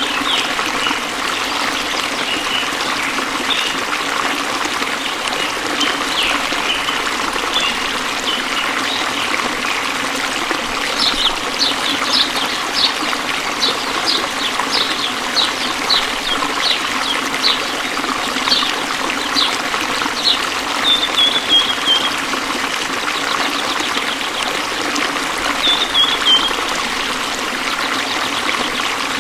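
Waterfall water splashing and rushing steadily. Over it a bird calls with a string of short sharp high notes from about a third of the way in, then a couple of brief falling trills later on.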